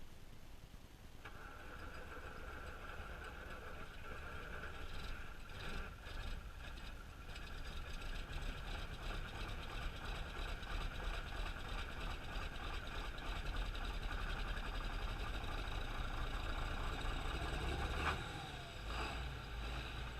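John Deere tractor diesel engine running just after a cold start, with a steady high whine that comes in about a second in. It grows gradually louder, then drops back near the end.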